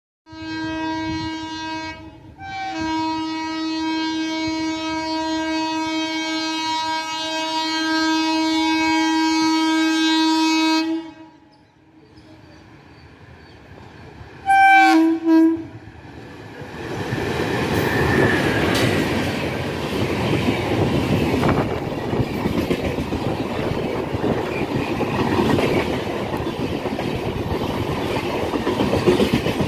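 Electric locomotive of the 12863 Howrah–Yesvantpur Superfast Express sounding its horn as it approaches: a short blast, a long blast held for about eight seconds, then two quick toots about fifteen seconds in. Then the express runs through the station without stopping, its coaches passing close by in a loud, steady rush that lasts to the end.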